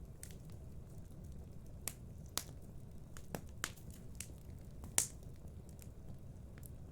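Wood fire crackling in a fireplace: scattered sharp pops, the loudest about five seconds in, over a steady low rumble.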